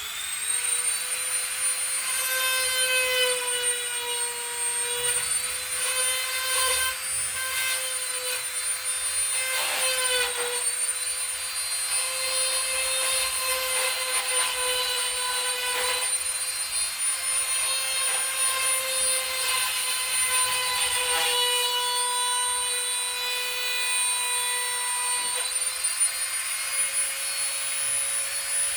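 A small high-speed electric motor with rushing air: it spins up quickly, then runs with a steady high whine. The whine wavers briefly a couple of times.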